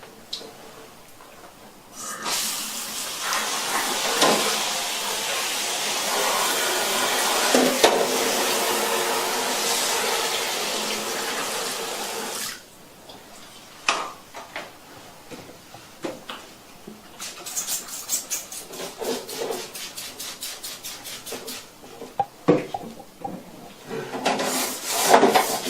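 A handheld shower head spraying water over the removed plastic panels and casing of a wall-mounted air conditioner, running for about ten seconds and then shutting off. After it, plastic parts knock and clatter as they are handled, with a quick run of rubbing strokes in between.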